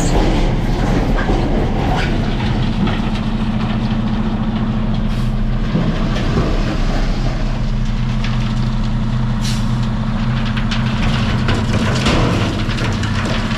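Dump truck's diesel engine running steadily with a low drone, heard from the cab, with scattered rattles and clicks.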